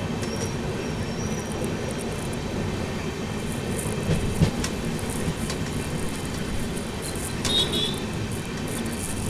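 Moving passenger express train running: a steady rumble of wheels on the rails, with a sharp knock about four and a half seconds in and brief high squeaks near the start and again around seven and a half seconds.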